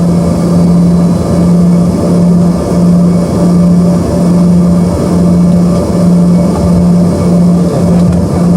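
Steady cabin drone inside an Embraer ERJ-145 jet with rear-mounted turbofans running: a strong low hum over a wide rushing noise, swelling and dipping slightly about once a second.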